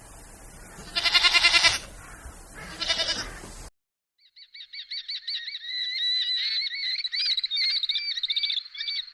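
A goat bleats twice over a steady background hiss; then, after a sudden cut, a bird sings a long, fast run of high chirping notes.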